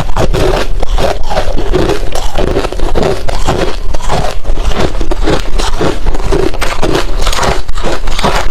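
Close-up chewing of hard refrozen crushed ice: loud, dense crunching and crackling in quick, irregular bites.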